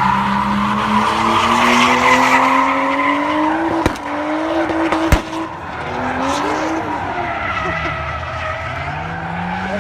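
Straight-piped exhaust of a '240' car, engine pitch climbing steadily under throttle for about four seconds, then two sharp cracks about a second apart, after which the revs drop, rise again and ease off.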